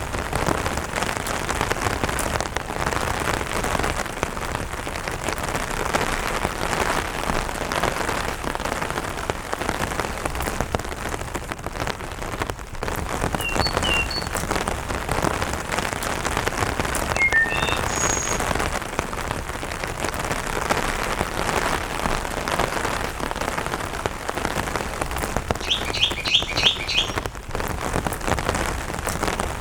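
Steady light rain falling on an umbrella. A few short bird chirps come about halfway through, and a quick trill of rapid notes sounds near the end.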